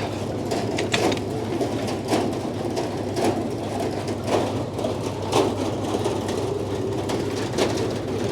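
Frick sawmill running steadily, with irregular metal clanks and knocks, about one a second, as a log is pushed into place and dogged on the carriage.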